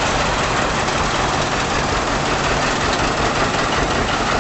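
Farm tractor engines running steadily as tractors drive past, a low engine drone under a steady rushing noise.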